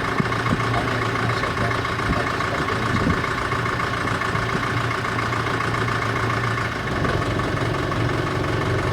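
Sailing yacht's engine running steadily while the boat motors along. Its hum changes slightly about seven seconds in.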